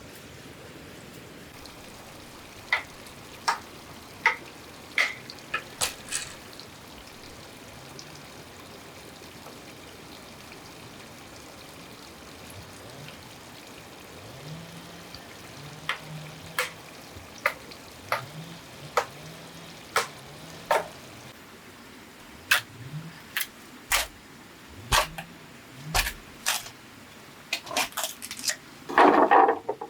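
Sharp, irregular knocks and taps in short runs, with a louder rustling scrape near the end.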